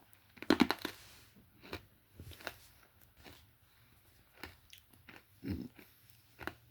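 Hard chocolate mint candy cane being bitten and chewed: irregular crunches and cracks of the hard candy between the teeth, loudest about half a second in and again near the end.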